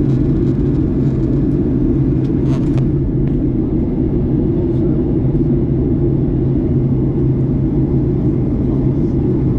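Steady low drone inside a Boeing 737 MAX 8 passenger cabin: engine and airflow noise, holding an even level with a low hum.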